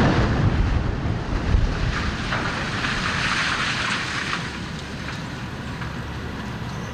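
Wind buffeting the microphone: a loud rushing noise with a deep rumble underneath. It is strongest at first and slowly eases off.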